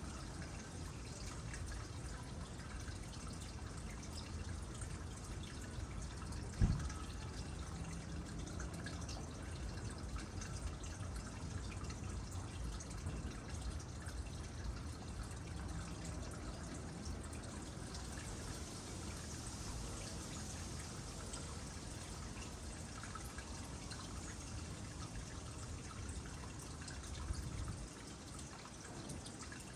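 Water trickling and dripping steadily into a small pond, with scattered drips. A single low thump about seven seconds in.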